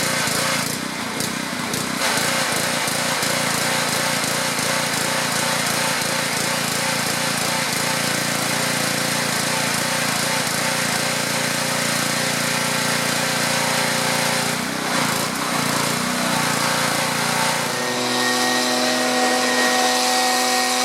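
Pressure washer running and spraying water, a steady loud hiss over the hum of its motor. Near the end the spray noise thins and a few steady tones stand out.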